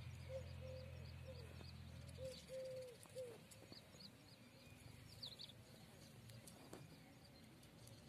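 Faint birdsong: a run of soft, low cooing notes in the first three seconds, then a few brief high chirps. A low steady hum underneath stops about two seconds in.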